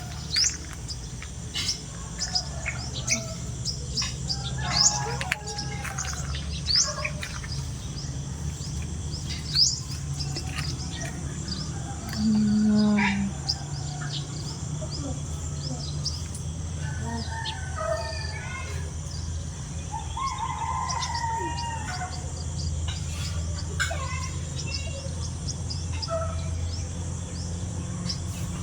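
Birds chirping and calling, with many short high chirps and some lower warbling calls, over a steady low hum. About twelve seconds in, a brief, loud low tone stands out for about a second.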